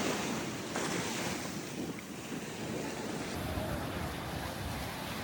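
Ocean surf breaking and washing up the beach, a steady rush with a couple of swells near the start. Wind rumbles on the microphone in the second half.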